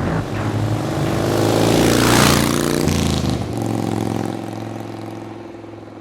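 Indian V-twin motorcycle engine going past: the engine sound swells to its loudest a little past two seconds in, then fades steadily as the bike rides away.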